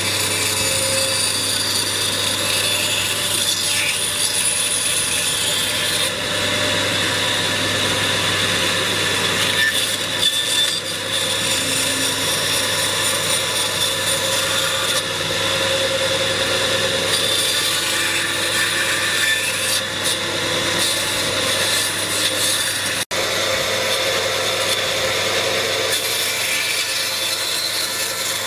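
A tool working wood, a continuous noisy cutting and rubbing sound over a steady low hum. It drops out for an instant once, near the end.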